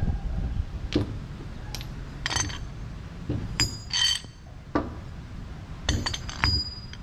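Metal tools and parts clinking together in a series of sharp, ringing clinks, over a steady low rumble.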